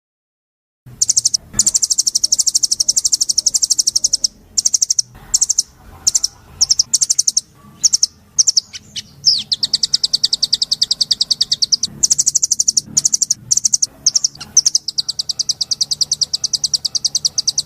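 A caged songbird singing long, very fast high-pitched trills, note after note in rapid runs broken by short pauses, starting about a second in.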